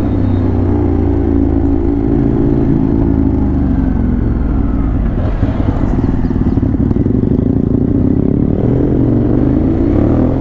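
Ducati Monster 821's V-twin engine running under way at steady revs, easing off about three seconds in, then picking up again near the end.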